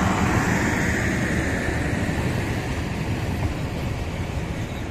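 Passenger train coaches rolling past, a steady rumble and hiss of wheels on the rails that eases slightly as the train moves away.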